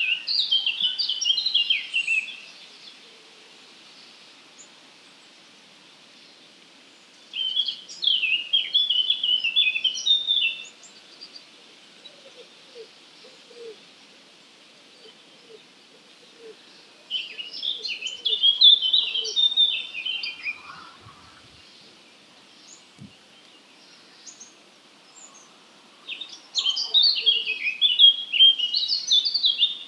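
A songbird sings a short, fast song phrase of quick notes that run downward in pitch, each two to three seconds long. It comes four times, about every nine seconds, over a faint steady background hiss.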